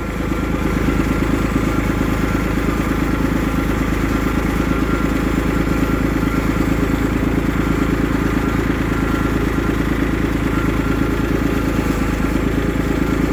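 A vehicle engine running steadily with a fast, even pulse, swelling slightly in the first second.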